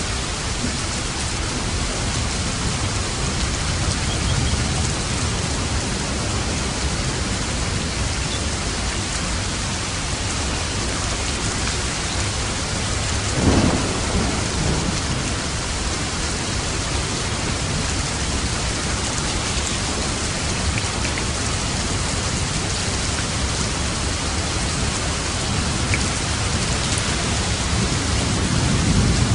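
Steady heavy rain with thunder rumbling, one roll swelling about halfway through and another building near the end.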